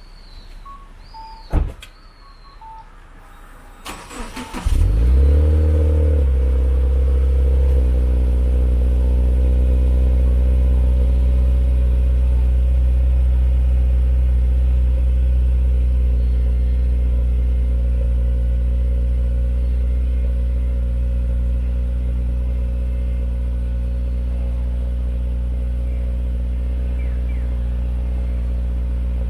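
A few short electronic beeps, then about four seconds in the starter cranks briefly and a cold Subaru flat-four engine catches with a short flare of revs, settling into a steady deep fast idle through an EXAS EVO Tune aftermarket exhaust. The idle eases slightly as it warms.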